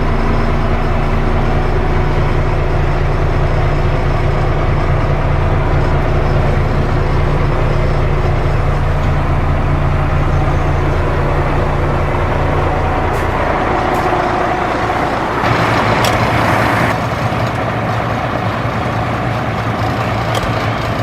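A 1998 Ford Louisville dump truck's engine is running steadily. About three-quarters of the way through, its note changes and settles lower, slightly quieter. Just before it settles comes a hiss of air lasting about a second and a half.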